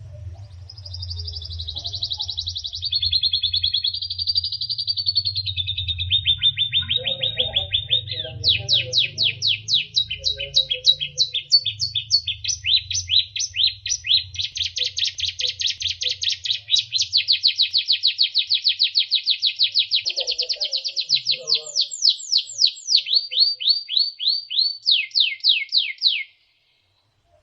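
White-rumped shama (murai batu) singing a long run of fast trills, each made of rapidly repeated sweeping notes, the phrase changing every few seconds, over a low hum. The song cuts off suddenly shortly before the end.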